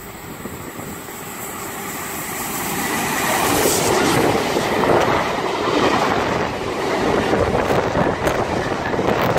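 Silver double-deck electric passenger train passing close along the station platform. Its rumble rises as it approaches over the first few seconds, then holds steady with wheel-on-rail noise and a few sharp clicks near the end.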